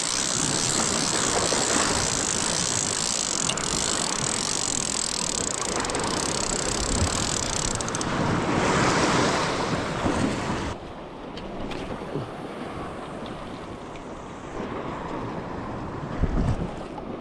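Sea surf washing on a rocky shore with wind buffeting the microphone, a loud steady hiss that swells about eight seconds in. After about ten and a half seconds the hiss drops off sharply and the sound goes quieter and duller.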